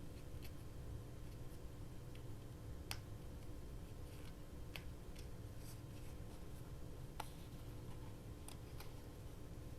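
Quiet paper-crafting handling at a desk: a few sharp, separate clicks and fainter light taps, spread out over several seconds, against a low steady hum.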